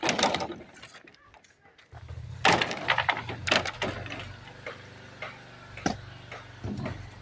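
Building-site work sounds: a run of sharp knocks and clatter of tools on block and timber, with a steady low machine hum that starts suddenly about two seconds in.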